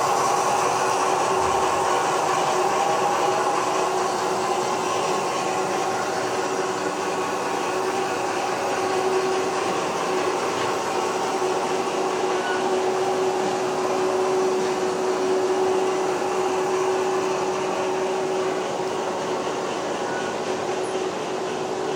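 H0-scale model train running on the layout: a steady electric-motor whine held at one pitch over an even background hum.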